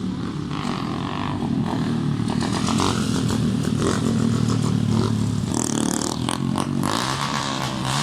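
A motorcycle engine running close by at a steady pitch, with a few clattering knocks about six seconds in.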